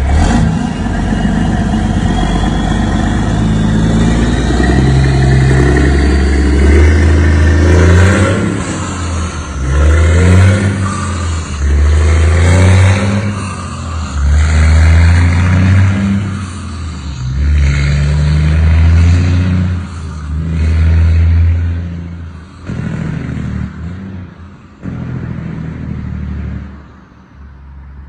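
A straight-piped motor vehicle's engine running loud and revving. It climbs steadily at first, then surges in repeated revs about every two seconds, with weaker blips before fading out near the end.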